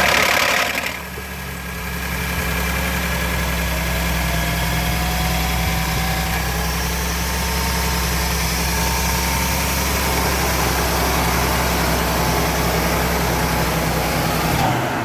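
Ford F-150 EcoBoost 3.5-litre twin-turbo V6 catching on a cold start with a brief loud flare, then idling steadily with a faint whine that slowly rises in pitch. It is shut off just before the end. This is the cold-start engine noise the owner is showing, which only happens on cold start.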